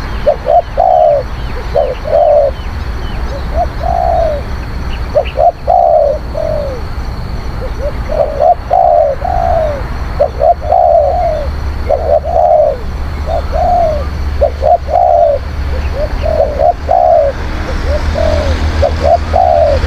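Spotted doves cooing over and over in short phrases of low, rounded coos, with faint chirps of small birds behind. A low steady hum sets in near the end.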